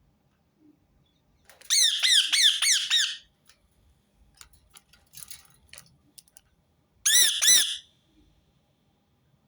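Rose-ringed parakeet screeching: a fast run of about six sharp calls, a few faint clicks, then two more calls near the end.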